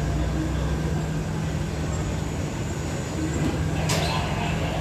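Passenger carriages of a train rolling slowly past a station platform: a steady low rumble with a low hum, and one short sharp click about four seconds in.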